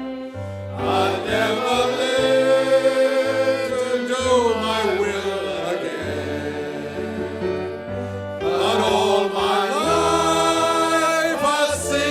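Several voices singing a slow gospel hymn together, over sustained low bass notes.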